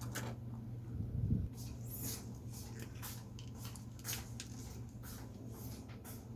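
Drawing tool scratching on paper in many short, irregular strokes, over a steady low hum; a dull low thump about a second in.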